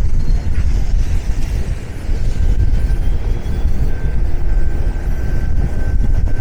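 Low, continuous rumble of city street traffic.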